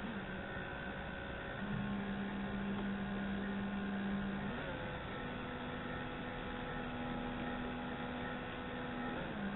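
Roomba 560 DC motor running on test with a steady whine that steps to a new speed a few times: up to a louder tone about two seconds in, to a higher pitch around five seconds, and changing again near the end.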